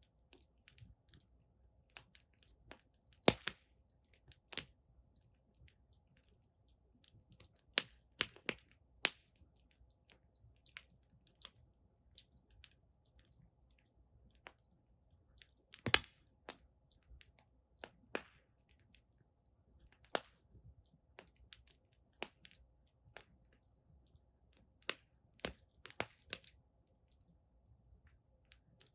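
Firewood burning in an outdoor fire pit, crackling with irregular sharp pops and snaps, two of them much louder about three seconds in and about sixteen seconds in.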